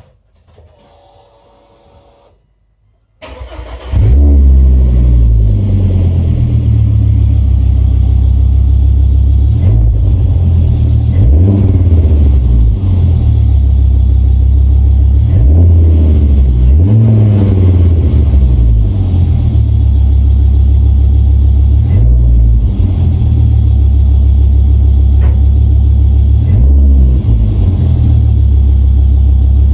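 Cold start of a Volvo S80 2.4T's turbocharged inline five-cylinder engine through a 3-inch stainless resonated catback exhaust: a faint hum, a brief crank about three seconds in, then it catches and runs loud and deep. It settles into a steady idle, blipped up and back down several times.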